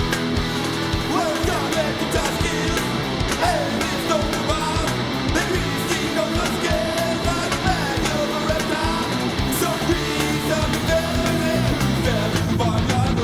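Punk-style rock song: electric guitars, bass and drums with a shouted lead vocal.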